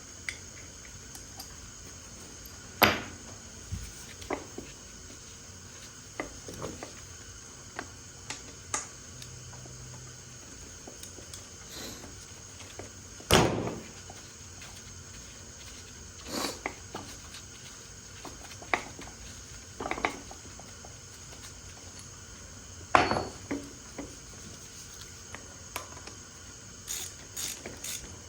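Scattered metallic clinks and knocks of hand tools against the bolts and brackets of a Honda K20 engine as its AC compressor is unbolted by hand, with three louder knocks about 3, 13 and 23 seconds in.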